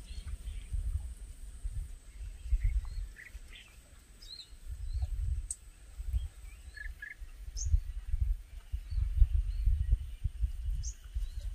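Birds chirping now and then, with short separate calls scattered throughout, over an irregular low rumble and a thin steady high-pitched whine.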